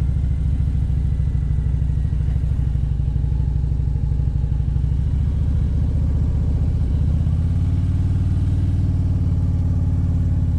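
Motorcycle engine running at low revs from the rider's seat, with a steady low note that shifts about seven seconds in as the revs change.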